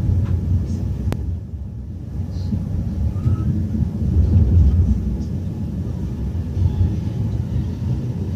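Train running with a steady low rumble, dipping briefly and then swelling again, and a single sharp click about a second in.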